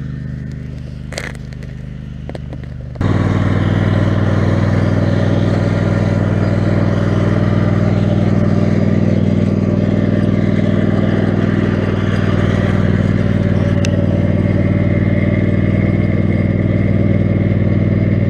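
Lawn mower's Kohler 18 HP Command engine running steadily. About three seconds in it jumps abruptly to a louder, fuller sound and holds there.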